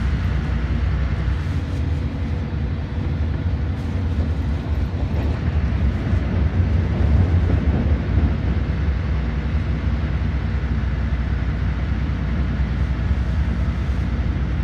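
Cabin noise of a LiAZ 5292.21 diesel city bus under way: a steady low rumble of engine and road, swelling briefly about halfway through.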